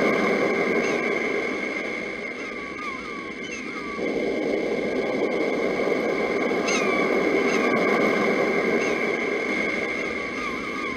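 Birds giving short, repeated chirps over the steady rush of sea surf. The surf dips briefly about two seconds in and again near the end.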